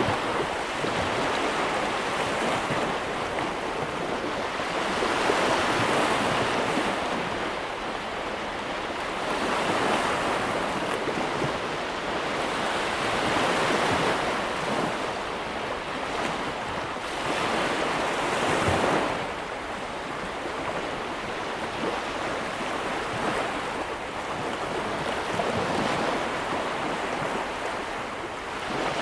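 Sea waves breaking and washing on a shore, a continuous surf that swells and eases every few seconds, with some wind.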